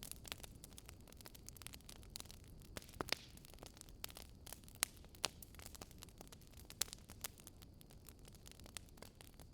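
Wood fire crackling: irregular sharp pops and snaps over a soft steady rumble.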